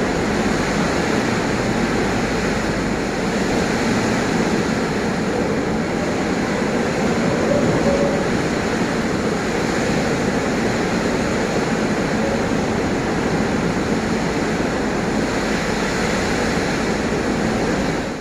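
Strong storm wind blowing hard, a loud steady rushing noise with no let-up.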